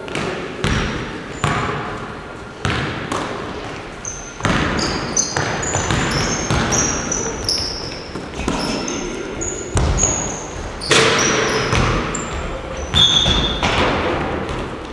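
Basketballs bouncing on a hall floor: irregular thumps that echo in the room, with many short high squeaks from about four seconds in.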